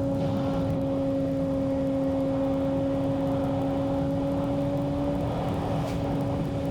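Mazda Miata driving at a steady, easy pace, heard from an onboard camera: a steady two-tone drone from the four-cylinder engine and drivetrain over tyre and road rumble.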